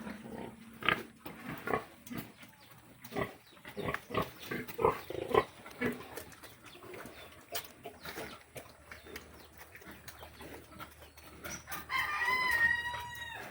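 Pigs grunting in short bursts through the first half, then a rooster crowing once near the end, one long call of about a second and a half that drops off at its close.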